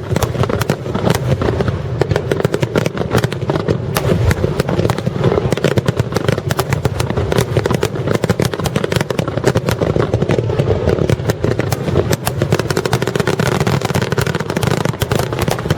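A fireworks star mine barrage firing continuously: many shells bursting in quick succession, dense overlapping bangs and crackles over a steady rumble, with no pause.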